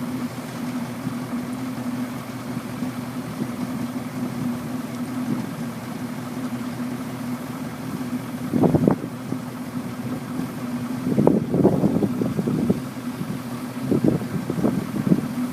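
Truck engine idling steadily, with a few louder, rough bursts about halfway through and again near the end.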